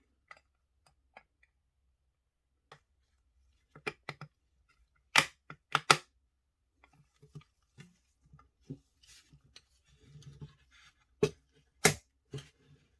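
Small hard parts of a scale model car clicking and tapping as they are handled and worked on: a series of sharp taps with pauses, the loudest a pair about five seconds in and another near the end, with a short scraping rustle in between.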